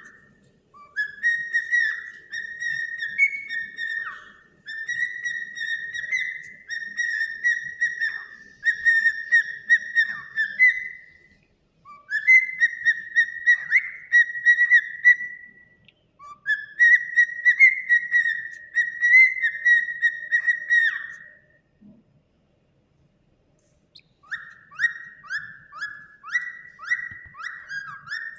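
Cockatiel whistling in long, warbling phrases held around one pitch, with short breaks between them. After a pause of about two seconds near the end, it gives a quick run of short repeated chirping notes.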